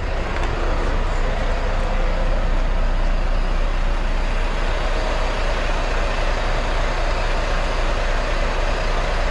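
Semi truck's diesel engine running steadily, a loud, even noise with a faint steady hum.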